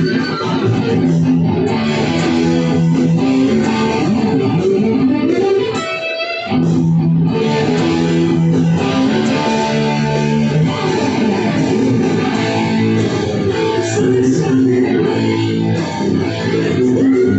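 Rock music led by electric guitar over bass guitar, with a short break about six seconds in.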